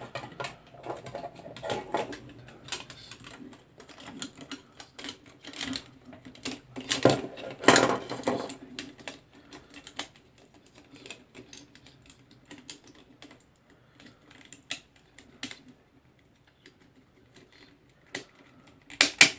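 Irregular small plastic clicks and taps from handling Cat6 cable and RJ45 connectors at a patch panel, with a couple of louder rustles about a third of the way in and a quieter spell near the end.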